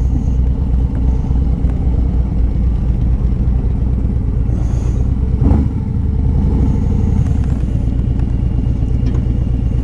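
Harley-Davidson V-twin motorcycle engine running steadily while riding, with a brief louder swell about five and a half seconds in.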